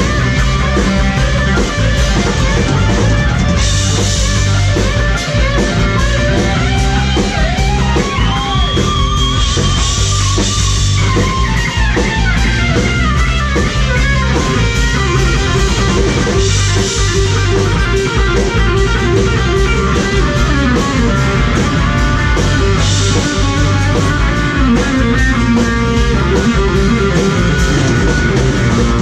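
Rock band playing: an electric guitar lead bending and sliding between notes over drums and bass, with cymbal crashes every few seconds.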